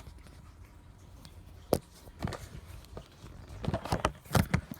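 Light handling noises of a cardboard microwave popcorn box: a single sharp click a little under two seconds in, then a flurry of soft knocks and taps near the end.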